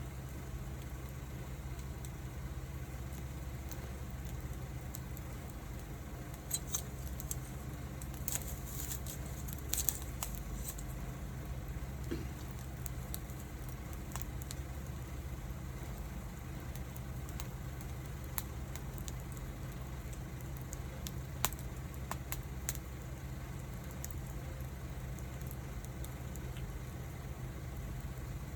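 Wood fire burning, with sporadic sharp crackles and pops, a cluster of them about eight to ten seconds in, over a steady low hum.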